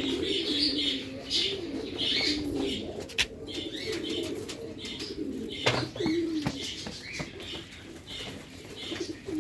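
Fancy pigeons cooing in low, wavering phrases, with small birds chirping steadily over them.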